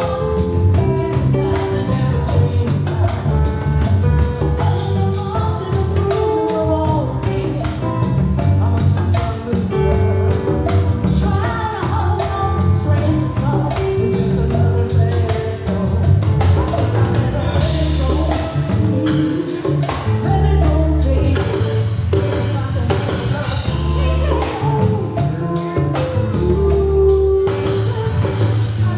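A live band playing a song with a singer, with percussion keeping a steady beat.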